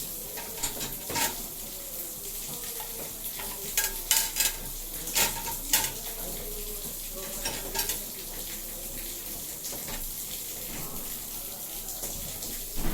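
LG 6 kg front-loading washing machine mid-wash: water and laundry sloshing in the turning drum, with irregular louder splashes over a steady hiss.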